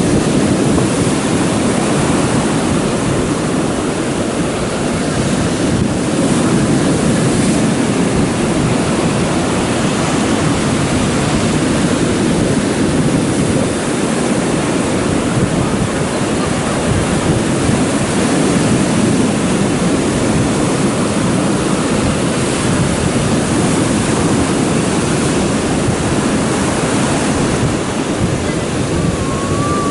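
Rough stormy sea surf washing and breaking continuously, with wind buffeting the microphone.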